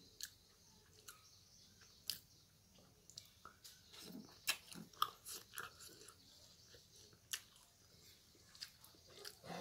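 A person chewing and smacking while eating bhakri dipped in dal by hand: faint, close, wet clicks and smacks, thickest about four to six seconds in.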